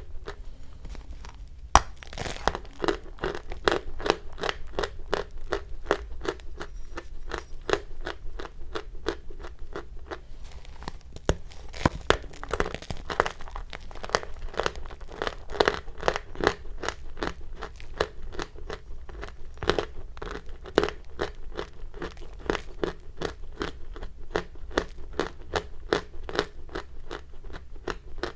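Chalk being crunched: a quick, regular run of crisp crunches, pausing briefly near the start and again about ten seconds in.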